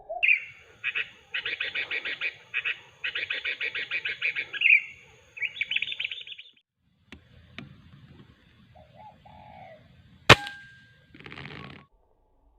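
A small bird chirping in fast runs of high notes for the first six seconds or so. About ten seconds in, a single sharp crack: an air rifle shot, followed by a short rustle.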